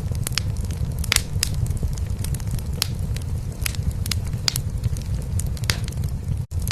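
Wood fire crackling in a fireplace, with irregular sharp pops over a steady low rumble that is a cat purring. The whole sound drops out for a split second near the end.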